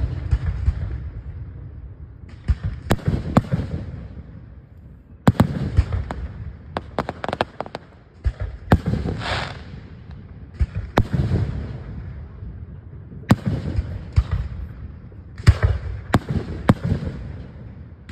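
Aerial fireworks shells launching and bursting overhead: about a dozen sharp bangs spaced a second or a few seconds apart, each trailing off in a rolling rumble.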